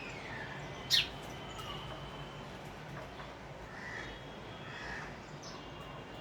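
Birds calling: one sharp, loud call that falls steeply in pitch about a second in, then a few softer calls, over a steady low hum.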